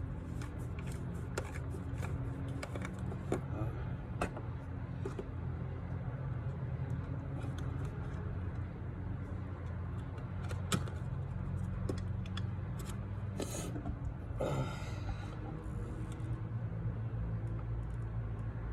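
Car engine idling steadily, with scattered light clicks and knocks and a brief rustling noise about 14 seconds in.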